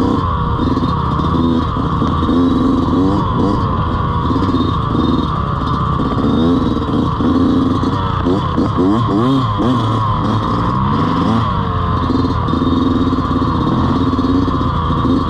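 Dirt bike engine running under load, its pitch rising and falling with the throttle, with several quick revs up and down around the middle.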